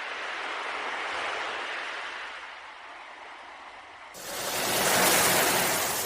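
Ocean waves washing in, in two swells of hissing surf; the second, louder swell sets in abruptly about four seconds in.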